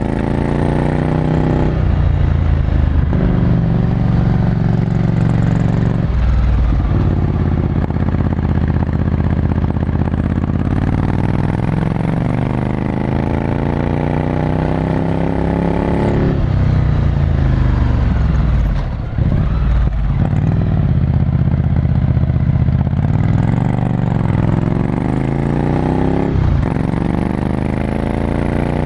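Ducati Scrambler Desert Sled's air-cooled L-twin with a full Termignoni exhaust, heard onboard while riding. The engine climbs in pitch through each gear and drops back at about five gear changes, with a brief dip in loudness about two-thirds of the way through.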